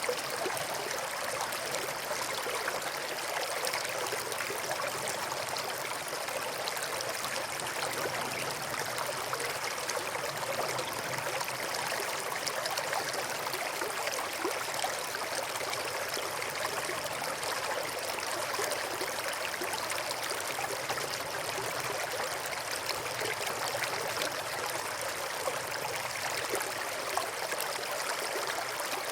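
River water flowing over and between rocks: a steady, even babbling rush.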